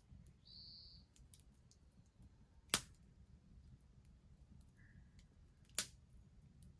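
Wood bonfire crackling softly, with two sharp pops about three seconds apart from the burning wood.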